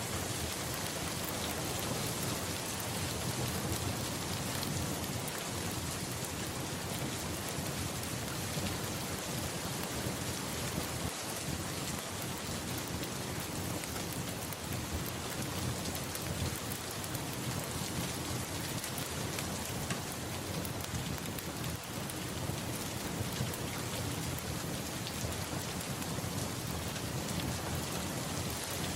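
Steady rain falling, a continuous even hiss, with a low rumble of thunder underneath.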